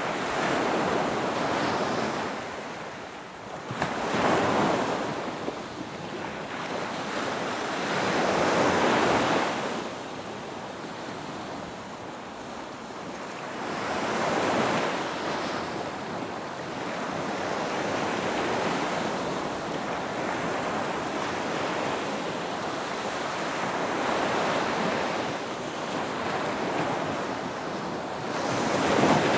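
Ocean waves breaking on a beach shore, each surge of surf swelling and fading every few seconds, with a steady wash of water between.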